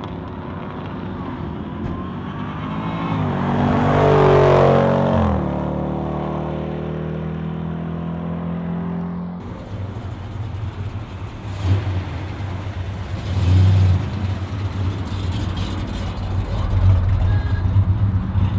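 Muscle car engine revving, its pitch climbing for a couple of seconds, then dropping back to a steady drone. Then a deep, low exhaust rumble with two short throttle blips, swelling louder near the end.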